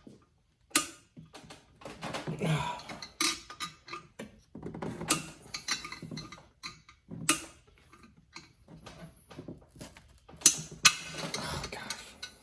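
Metal hand tools knocking and clinking on a chainsaw while over-tight bolts are worked loose, with a few sharp, louder knocks about a second in, around seven seconds in and near the end.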